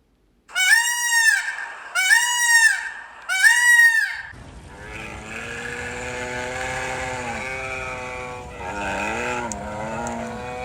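Animal calls. Three loud calls, each rising and then falling in pitch, come about a second and a half apart. Then a lower, long drawn-out call follows, with a second call that wavers in pitch near the end.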